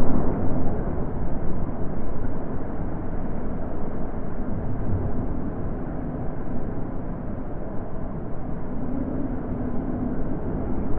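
Natural wind blowing in gusts as a rushing noise. It is strongest at the start, then eases to a fairly even level.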